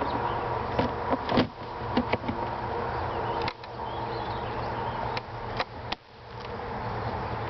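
Honeybees buzzing steadily around an open hive, with several sharp knocks and clicks from wooden hive parts being handled.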